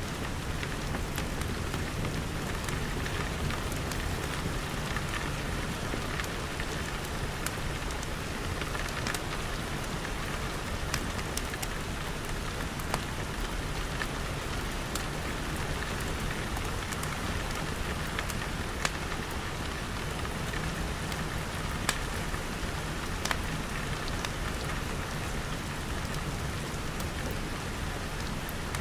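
Steady rain pattering on glass, with scattered sharp pops and crackles from a wood fire, a few louder ones standing out.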